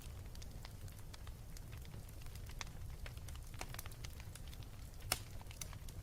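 Wood fire burning: a steady low rumble with scattered sharp crackles and pops, the loudest pop about five seconds in.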